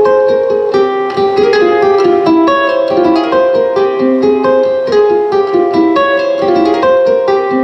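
A solo plucked string instrument playing a fast, continuous stream of picked notes that ring on over one another.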